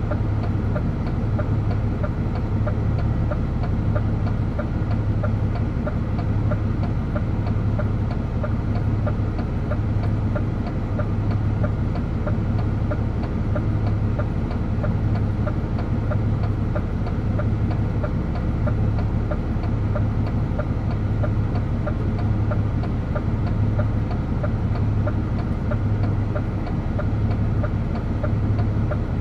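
DAF truck's diesel engine running steadily, with a low drone that swells and fades about once a second.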